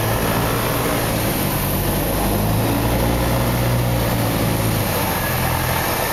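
Cessna 152's four-cylinder Lycoming engine and propeller droning steadily over a hiss of air noise, the note swelling slightly for a couple of seconds around the middle.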